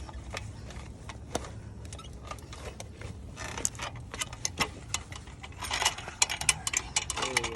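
Metal clinks and rattles in irregular clusters from hands working on a dirt bike's loose wheel and drive chain; the wheel wobbles side to side, a sign of a broken hub bearing.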